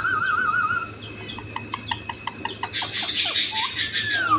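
Parrots chirping and whistling: a wavering trill, a quick run of short falling chirps and clicks, and a rising whistle, with a loud harsh screech from near the middle almost to the end.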